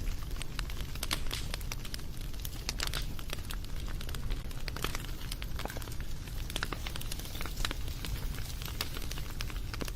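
Wood fire crackling and popping, with dense, irregular small snaps over a low steady rumble of the flames.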